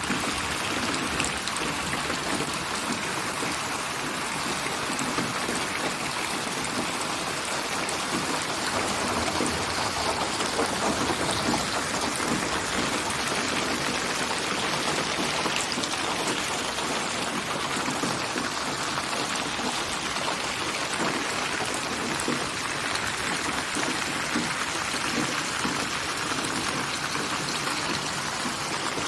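Steady rain, a dense even patter of drops on surfaces, mixed as a binaural 8D (HRTF) soundscape built from many rain recordings.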